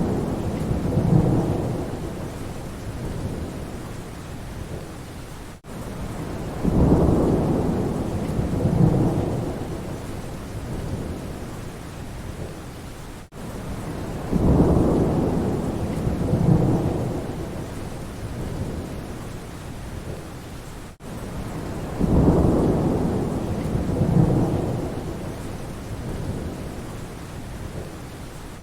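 Steady rain with low rolling thunder rumbles. It is a short recording looped about every seven and a half seconds, so the same double swell of rumble returns four times, with a brief dropout at each join.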